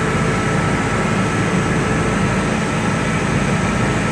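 Motorboat running at speed on the plane: a steady engine drone mixed with the rush of wind and water, with a faint steady whine above it.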